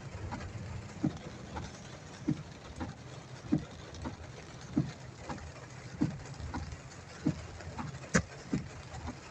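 Windshield wipers sweeping in the rain, a low thump at the end of each stroke about every 1.2 seconds with a weaker one in between, over the steady hum of the idling car and rain on the body. A sharper click a little after eight seconds in.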